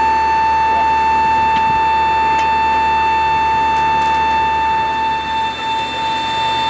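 A loud, steady high-pitched tone with overtones that holds one pitch throughout, over a low background hum.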